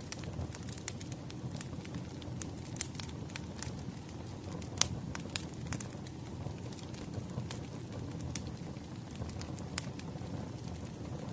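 Crackling wood fire: a steady low rumble of burning with scattered sharp pops, the loudest about five seconds in.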